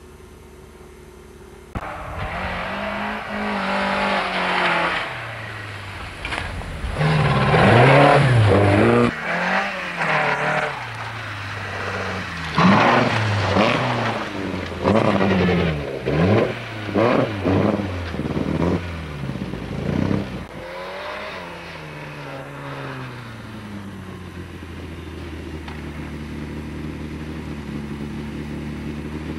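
Rally car engines revving hard on a snow stage. The pitch climbs and drops repeatedly with gear changes and wheelspin, with noisy rushes as the cars pass. After a short quiet hum at the start the sound jumps in suddenly, and near the end it settles into a steady engine note that slowly grows louder.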